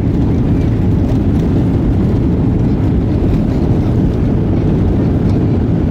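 Airliner cabin noise: a steady, loud low rumble of the engines and airflow heard from inside the passenger cabin.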